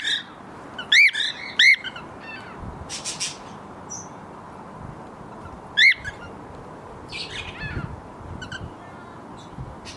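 Pet parrots and parakeets in an aviary calling: three loud rising-and-falling contact calls, two close together near the start and one about six seconds in, with scattered smaller chirps between them over a steady background hiss.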